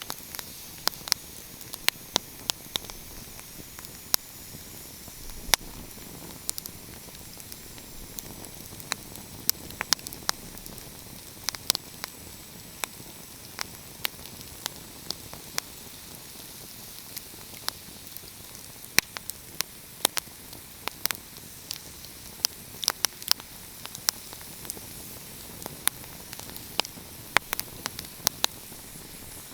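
Wood fire crackling: irregular sharp pops and snaps, sometimes several in quick succession, over a steady soft hiss.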